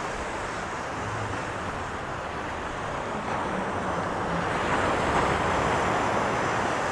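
Sea waves surging onto the shore: a steady rushing that builds a little about halfway through.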